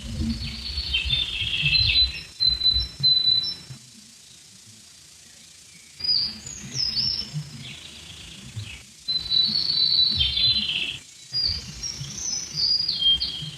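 Birds chirping and singing in short high calls and whistles over an uneven low rumble. It fades to a faint hiss for about two seconds near the middle, then the birdsong returns.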